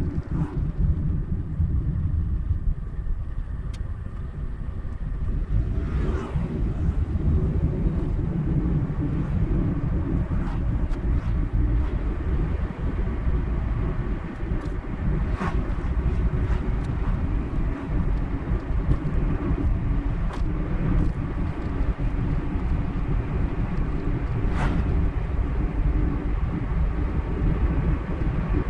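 Car driving at road speed: steady low rumble of tyres and engine, with a few brief faint swishes.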